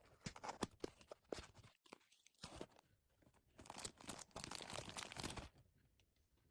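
Faint handling of a small toy and its packaging: a run of clicks and crinkling, then a longer stretch of rustling and crinkling about three and a half seconds in.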